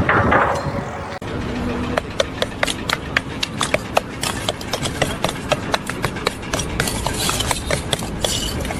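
A quick, irregular run of sharp knocks or clicks, several a second, over a steady background noise.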